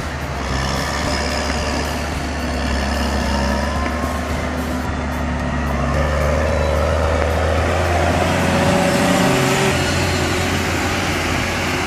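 New Holland T7070 tractor's diesel engine running hard under load with a steady low roar that swells slightly partway through.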